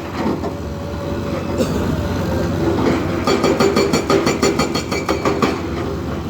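A heavy machine's diesel engine running steadily, with a rapid metallic clatter of knocks from about three seconds in until near the end.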